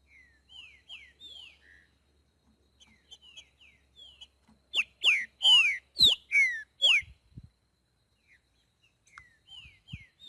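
Green-winged saltator (trinca-ferro) singing in the boiadeiro style: soft short down-slurred whistles, then a loud phrase of about five strong descending whistled notes in the middle, and soft notes again near the end.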